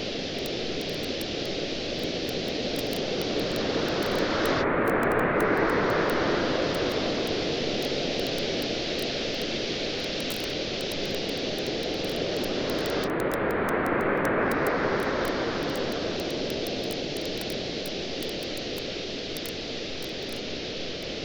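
Campfire crackling in frequent small, sharp pops over a steady wash of ocean surf. Two waves swell in and fade, about nine seconds apart.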